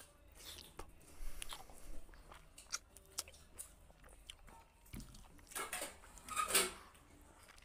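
A person chewing a mouthful of rice eaten by hand, with wet squishing and clicking as fingers mix rice and curry on a plate. The loudest sounds come about six seconds in.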